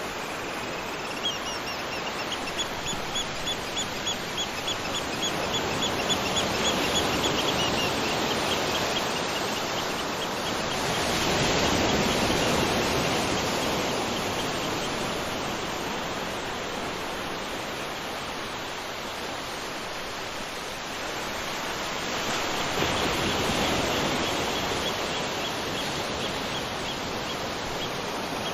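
Waterfall rushing, a steady dense hiss of falling water that swells and eases in slow waves. A high, rapidly repeated chirping runs over it for the first several seconds and again near the end.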